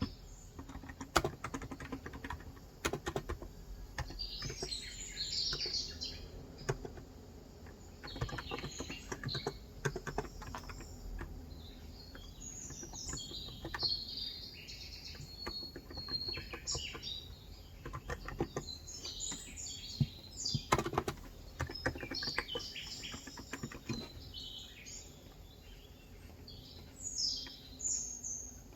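Typing on a COX Endeavor electro-capacitive tenkeyless keyboard with light 35 g switches: irregular runs of soft keystroke clacks. Birds chirp outside throughout, in frequent short bursts of high twittering.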